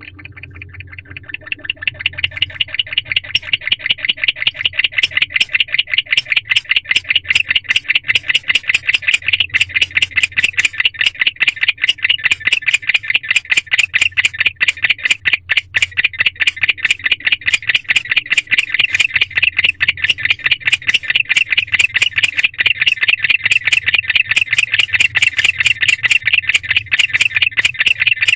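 Male barn owl chirping: a long, rapid, evenly repeated run of high chirps that grows louder over the first few seconds, then keeps going steadily. It is a call typical of a male calling for his mate.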